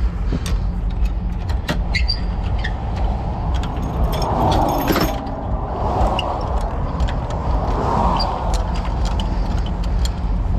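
Flatbed tow truck's engine running steadily, with scattered metallic clinks and rattles of chains and gear being handled.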